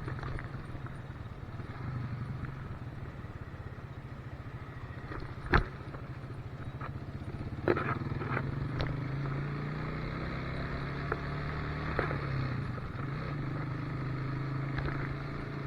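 Motorcycle engine running steadily under way, with a few sharp knocks, the loudest about five and a half seconds in.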